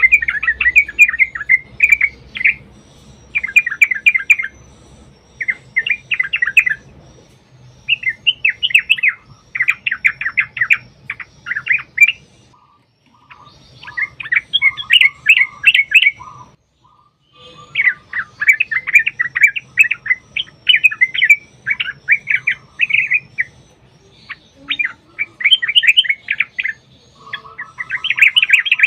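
Yellow-vented bulbuls (trucukan) singing: rapid bubbling, chattering phrases about one to two seconds long, repeated over and over with short gaps. These are the long 'ropel' runs used to set other bulbuls singing.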